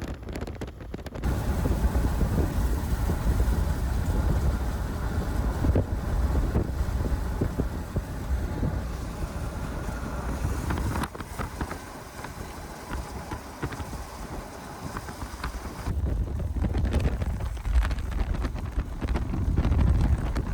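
Strong wind buffeting the microphone in gusts, a loud low rumble that swells and eases, in the winds around a tornado-producing supercell.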